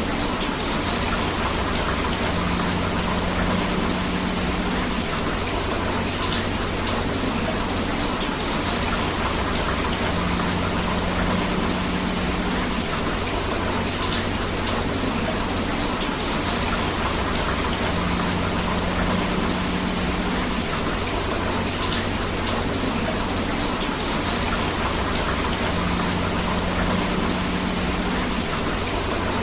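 Steady rain falling together with a rushing river, a dense, even hiss of water with no pauses. The same pattern recurs about every eight seconds, as in a looped recording.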